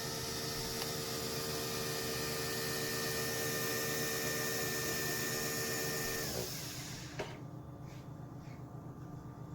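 A small electric motor in a kitchen appliance whirring steadily, then winding down and stopping about six seconds in, followed by a single click about a second later.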